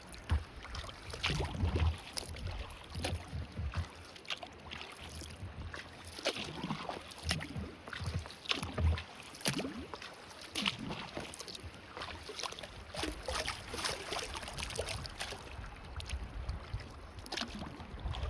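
Kayak paddle strokes: the blades dip and splash in the river again and again, with water dripping from them, and there are a few low thuds.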